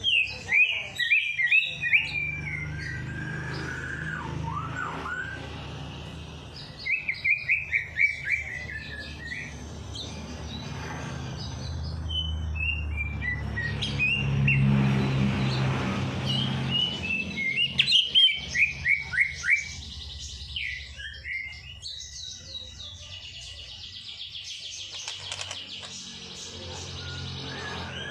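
Songbird singing in repeated phrases of rapid, short downward-sweeping chirps, over a steady low hum.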